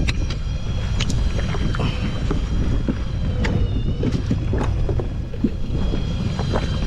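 Wind buffeting the microphone and water slapping against a small inflatable boat, with scattered sharp clicks and a faint, thin, high steady whine.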